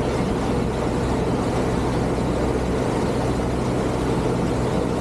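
Boat engine running steadily under way: an even low drone with a rushing noise over it.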